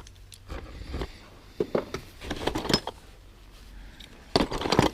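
Small objects being handled while rummaging through a box of odds and ends: scattered clicks, knocks and rustles, with a louder cluster of knocks near the end.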